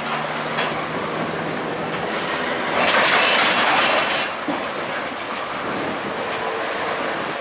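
Freight train's covered hopper cars rolling past, wheels running through shallow flood water over the track and clacking on the rails. A louder hissing rush comes about three seconds in and lasts a little over a second.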